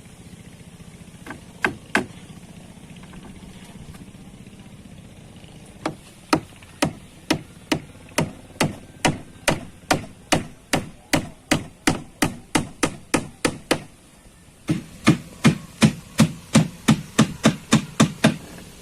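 Hammer blows struck in a steady rhythm. There are two strikes early, then a run of about two blows a second, a short pause, and a faster run of three to four blows a second.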